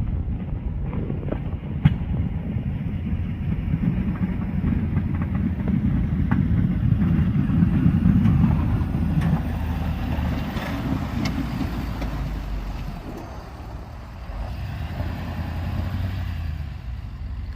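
Plow truck engine running, louder toward the middle and easing off about two-thirds in, with a sharp click about two seconds in.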